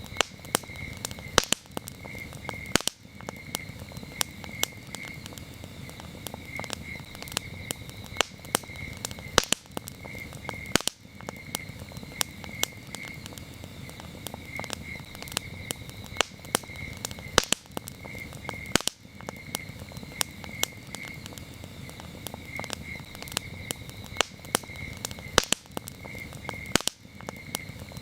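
Wood campfire crackling, with frequent sharp pops over a low steady rustle of the flames. Crickets chirp throughout in a high, steadily pulsing trill.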